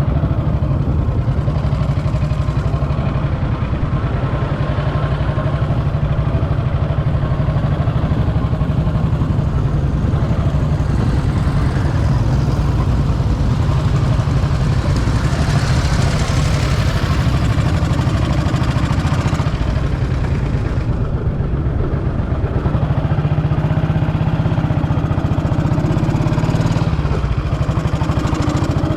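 Vintage motorcycle engine running steadily at idle, with a broad rush of noise swelling up and fading away about halfway through.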